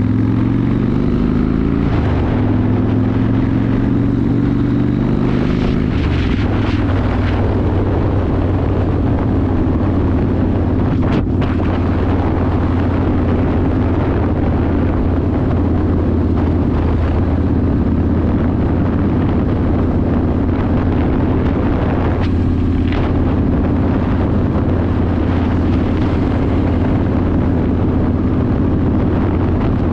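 Yamaha Warrior 1700's air-cooled V-twin running through a custom exhaust while cruising. Its note shifts over the first few seconds, then holds steady.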